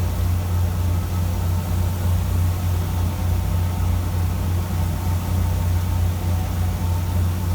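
A fishing boat's diesel engine running steadily, a constant low drone with an even hiss over it.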